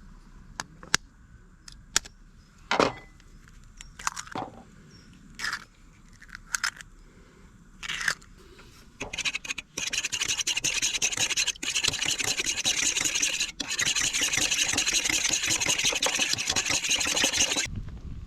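A few scattered clicks and knocks, then about eight seconds of fast, continuous scraping and rubbing strokes that stop abruptly near the end.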